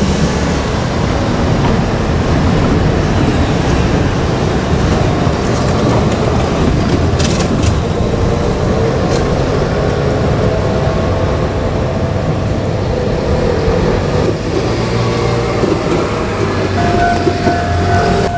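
A JR Kyushu KiHa 200 diesel railcar running past, a steady loud rumble of engine and wheels on rail with a few sharp clicks about halfway through. A steady high tone comes in near the end.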